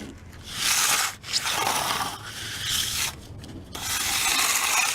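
A hand finishing tool scraping across fresh, wet concrete in about four long strokes.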